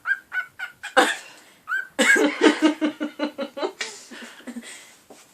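Cockatiel chirping in quick, repeated short calls, about four a second. About two seconds in, a denser, noisier run of calls starts, with a lower human voice mixed in, and it trails off near the end.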